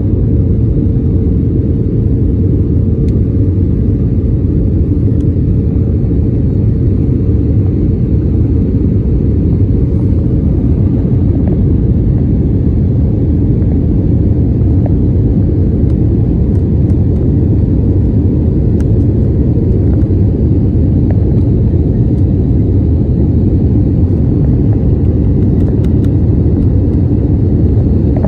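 Airliner during takeoff or climb: a loud, steady low rumble of jet engines and airflow, with no change in level throughout.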